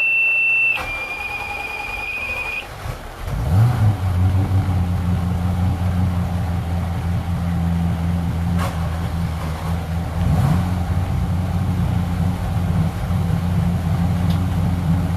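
A steady high-pitched beep stops under a second in, a second high tone sounds until about two and a half seconds in, and then a cold carbureted marine engine on a twin-engine boat catches at about three and a half seconds and idles steadily while warming up after stalling.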